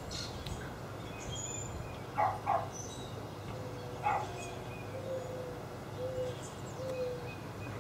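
Backyard birdsong: a low cooing call repeated four times in the second half, with faint higher chirps. A few short soft puffs come around two and four seconds in.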